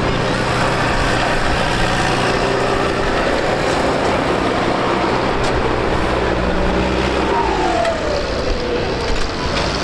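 Tractor diesel engine running hard and steady, with a tone gliding down in pitch about three-quarters of the way through.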